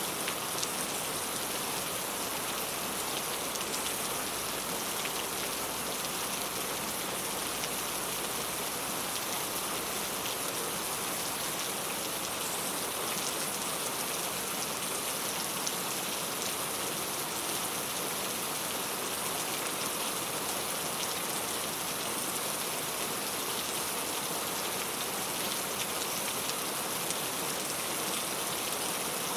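Steady rain falling on a clay tile roof: an even hiss of rain with many small drop ticks, holding constant.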